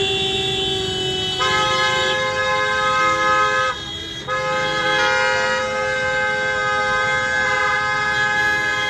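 Car horns honking in long, held blasts, several horns at once: one long blast, a brief gap about four seconds in, then another long blast.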